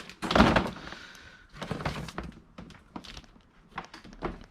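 A dull thunk about half a second in, then scattered light knocks and rustling of scrap items being handled.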